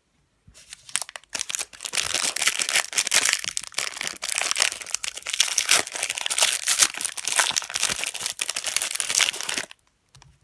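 Foil wrapper of a 2013 Panini Momentum football card pack being torn open and crinkled by hand: a dense, loud crackling that starts about half a second in and stops sharply near the end.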